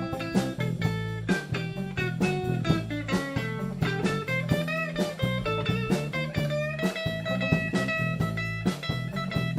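Live blues band playing an instrumental break: guitar lead over a walking bass line and drums, with a long held note from about seven seconds in.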